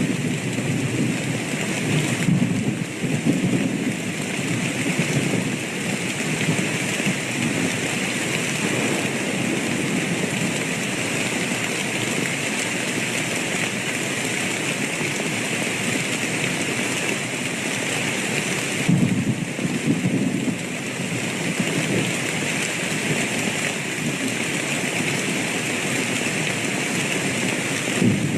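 Steady rain falling, an even hiss, with low thunder rumbling underneath that swells in the first few seconds and again about two-thirds of the way through.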